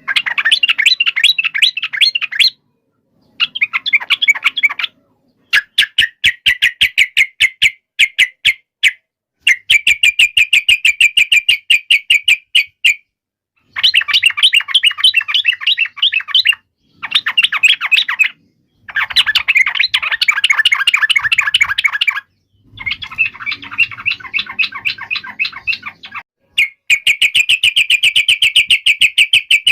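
Yellow-vented bulbul (trucukan) singing an excited, agitated 'fighting' song: loud phrases of rapid chattering notes, each a second to a few seconds long, broken by short gaps.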